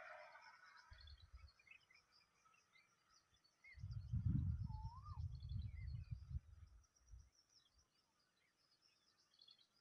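Birds chirping faintly, with short calls and a few whistled notes that slide up and down. From about 4 to 6 seconds in, a louder low rumble on the microphone.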